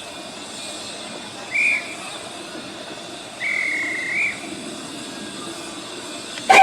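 A high hand whistle blown twice, short then longer, in the way a guard signals a train away. Right at the end, the miniature steam locomotive's whistle sounds loudly, with several pitches at once.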